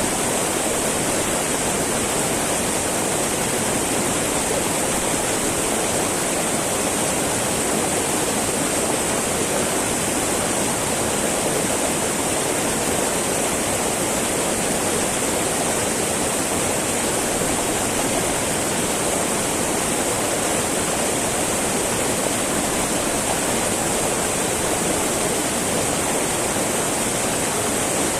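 Small mountain river babbling and rushing over rocks, a steady, unbroken water sound.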